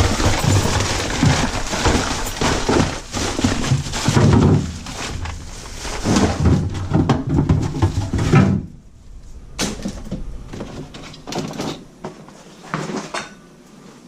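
Plastic garbage bag rustling and crinkling as it is handled and double-bagged. About eight and a half seconds in it drops to quieter scattered knocks and clatter.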